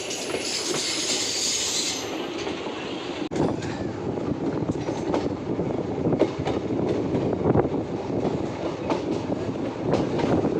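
Passenger express train (14650 Saryu Yamuna Express) running on the rails: a steady rumble with irregular clattering knocks from the wheels over rail joints. A high hiss or squeal in the first two seconds stops abruptly about three seconds in.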